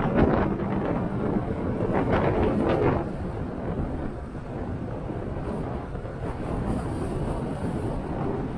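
Motorcycle running at road speed, its engine under heavy wind noise buffeting the microphone. The noise grows louder near the start and again about two to three seconds in.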